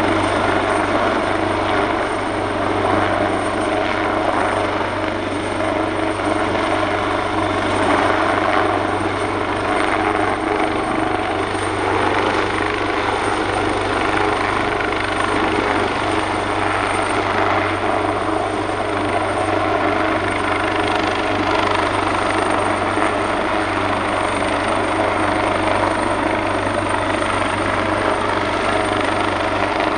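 AgustaWestland AW139 helicopter running steadily, its two Pratt & Whitney Canada PT6C turboshaft engines and five-bladed rotor giving an even noise with a thin, steady high whine above it.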